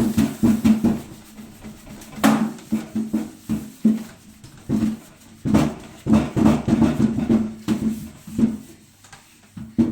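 Wet glove and cloth wiping over the top of a microwave: irregular rubbing strokes with a low, buzzy squeak to them.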